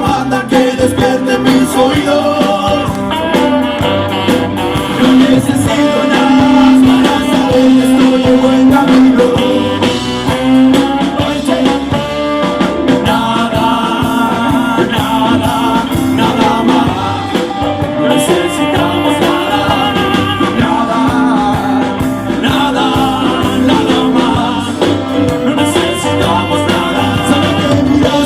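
Blues band playing a song, with drums keeping a steady beat and a singing voice.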